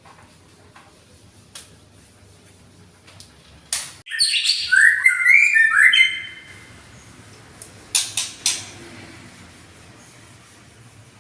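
A caged songbird singing a short burst of quick, warbled phrases for about two seconds, with a few sharp clicks just before and again a couple of seconds after.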